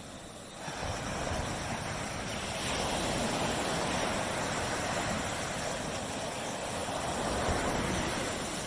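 Surf on a tropical beach: a wave surges in about half a second in, washes noisily for several seconds, then subsides near the end.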